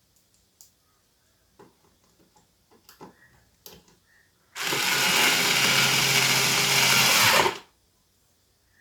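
Battery-powered electric screwdriver running steadily for about three seconds, starting about halfway in and cutting off sharply, after a few light clicks of parts being handled.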